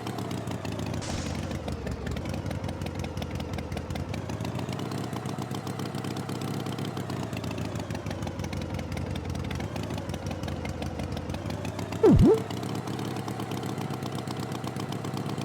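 Tractor engine running steadily at idle. About 12 seconds in, a brief loud sound sweeps sharply down and back up in pitch.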